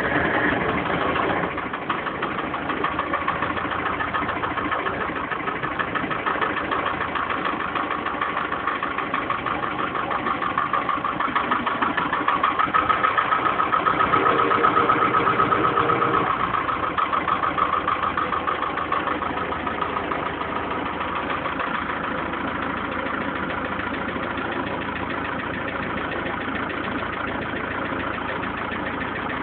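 Steyr 980 tractor's diesel engine idling just after a cold start, swelling louder for a few seconds in the middle, then settling to a steady idle.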